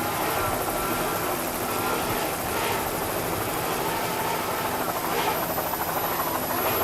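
Steady motor drone with a rush of noise swelling about every two and a half seconds, from offshore racing powerboats and aircraft engines.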